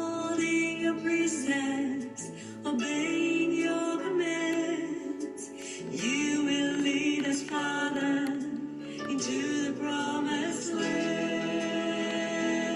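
Worship song: a voice singing long held, gliding notes over steady instrumental accompaniment.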